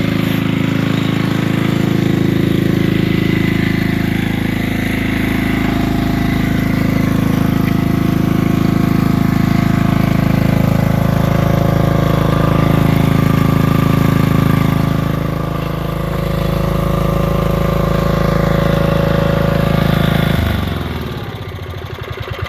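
An old portable generator's engine running steadily under load, then about 20 seconds in its pitch falls and it winds down.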